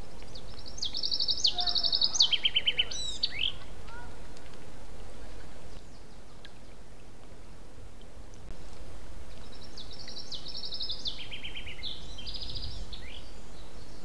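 A songbird singing twice over a steady background hiss. Each song is a few seconds of quick repeated notes in trilled phrases that step from high to lower.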